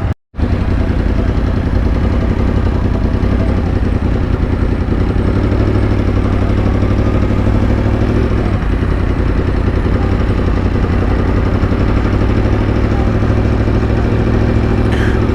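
Yamaha FZ-10 inline-four motorcycle engine running steadily at low speed, heard from the rider's helmet microphone, with little change in pitch. It cuts in after a split-second gap at the start.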